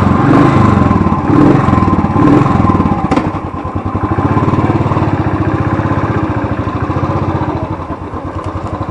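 Motorcycle engine revved in several short throttle blips, then settling to a steady idle about three seconds in.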